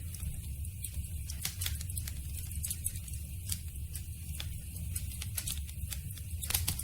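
Campfire burning: wood crackling with irregular small pops and snaps over a steady low rumble, one sharper pop near the end.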